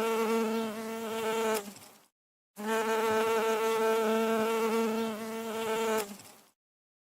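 A bee buzzing in flight: a steady drone at one pitch that stops about two seconds in, starts again half a second later, and stops again near the end.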